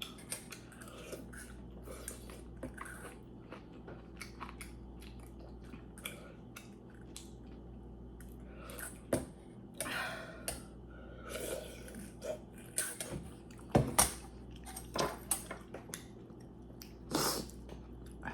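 Close-up chewing and mouth sounds of someone eating, with scattered clicks of cutlery against a dish; a few sharper, louder clicks come about nine, fourteen and seventeen seconds in.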